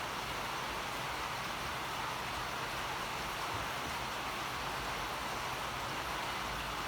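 A steady, even hiss with no separate events.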